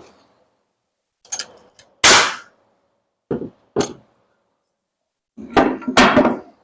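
Irregular knocks and thuds of work on wooden wall framing: about seven sharp wood impacts with silent gaps, one loud thud about two seconds in and a quick cluster of louder knocks near the end.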